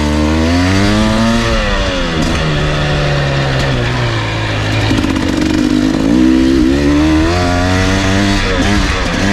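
Husqvarna enduro dirt bike engine revving up and down while ridden on a trail: the pitch climbs in the first second, drops back, then climbs again about six seconds in.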